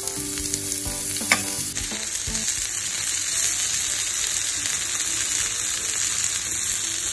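Sliced onions sizzling in hot oil in a non-stick pan, stirred with a fork that clicks against the pan a few times. After about two seconds it becomes a steady, brighter sizzle of shallow-fried mutton kababs and onions frying together.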